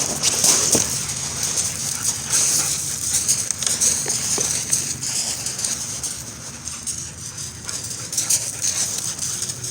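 A dog's sounds over a steady high hiss, with scattered small clicks.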